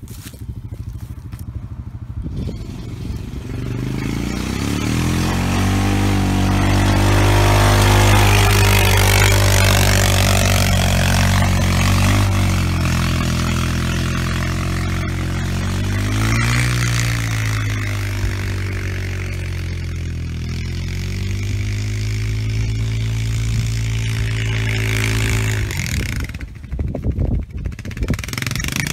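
ATV engine running hard under load as it pulls a land planer through ditch dirt, with a hissing noise over the engine. It builds up a couple of seconds in, its pitch dipping and rising a few times, and falls away near the end, leaving some clattering.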